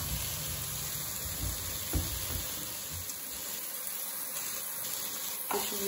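Onion-tomato masala sizzling steadily in a wok, with powdered spices just added on top and not yet stirred in. A soft knock about two seconds in.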